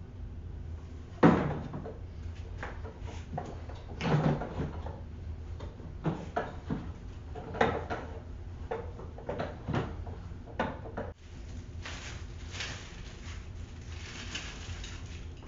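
Hard plastic parts of a cordless wet/dry vacuum being handled and set down: a string of separate knocks and clunks, the loudest about a second in, with lighter clicks between.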